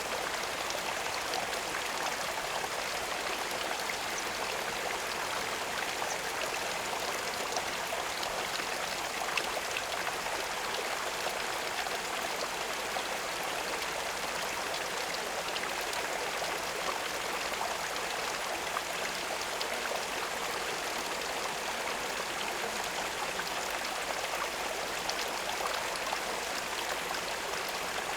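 Steady running water, like a small stream or trickle, an even rushing with faint scattered drips.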